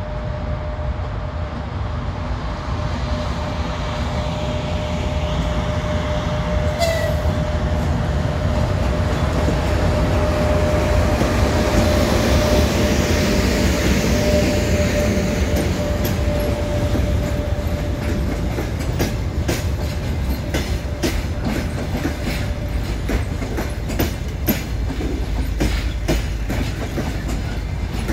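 An EP1M AC electric locomotive hauls a passenger train slowly past, with a steady whine and a low rumble that are loudest as it goes by. After that its carriages roll past, their wheels clicking rhythmically over rail joints and points.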